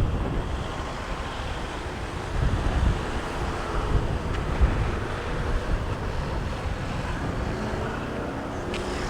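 Wind buffeting the microphone, with waves breaking on the shore underneath.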